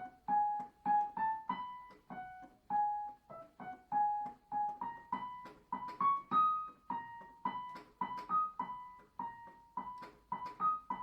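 Piano playing a single-line right-hand melody of separate notes that climbs and swells from soft to loud (a crescendo to forte) in the middle, then falls back with a diminuendo to soft.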